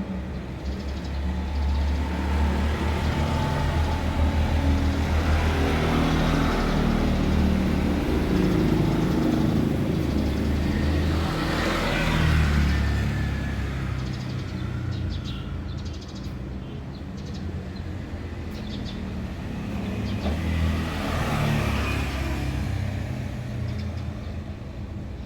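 Low engine rumble of passing motor traffic, swelling and fading three times, about 6, 12 and 21 seconds in.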